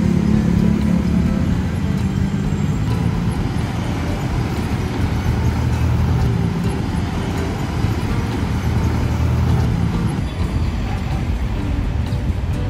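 Road traffic noise: motor vehicles running with a steady low engine hum, under quiet background music.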